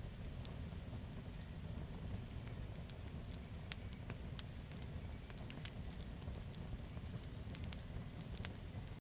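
Wood campfire burning: a steady low rumble of flame with irregular sharp crackles and pops from the burning wood.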